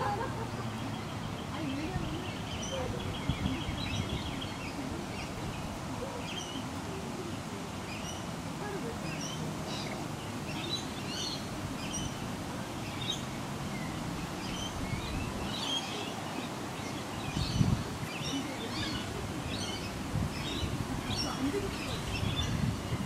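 Small birds chirping and calling outdoors, with short high chirps scattered throughout and growing more frequent in the second half. A rapid trill comes about two seconds in. A steady low background hum runs underneath.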